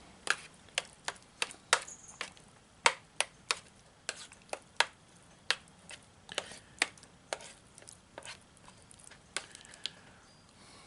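A spoon stirring salt and pepper into a chicken and rice MRE entree, with a series of irregular clicks, about two a second, as it knocks against the container. The clicks stop near the end.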